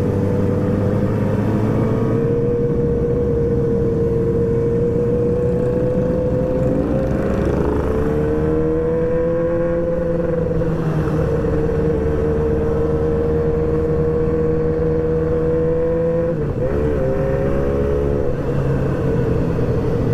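Yamaha R6 sport motorcycle engine running at steady revs while being ridden. Its pitch dips and climbs again twice, about seven seconds in and about sixteen seconds in.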